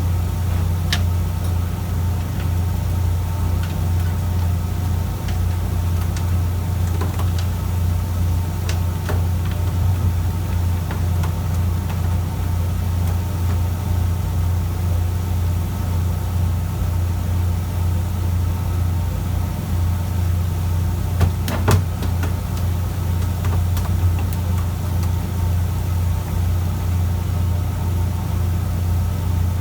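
Fishing boat's engine running steadily, a low even drone, with a couple of sharp knocks about two-thirds of the way through.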